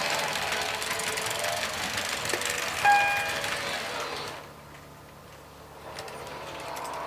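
H0-scale model trains running on the layout with a steady whirring and rattling, and a short pitched toot about three seconds in. The running noise drops away for a couple of seconds near the end, then picks up again.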